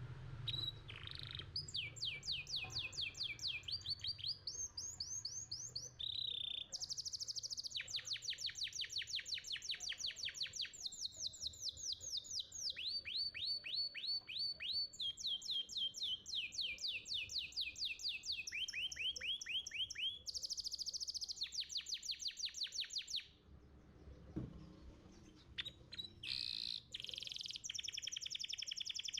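Domestic canary singing a long song of rapid trills: fast runs of repeated sweeping notes, each run held for a second or two before it switches to another. The song breaks off about 23 seconds in and picks up again a few seconds later.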